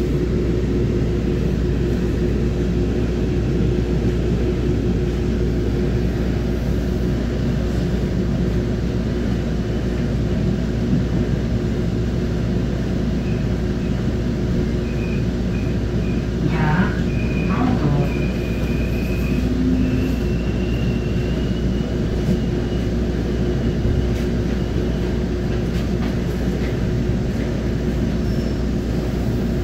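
Steady rumble and hum of a commuter train coach in motion, with a constant low drone underneath. A thin high whine rises faintly through the middle as the train draws up toward a station platform.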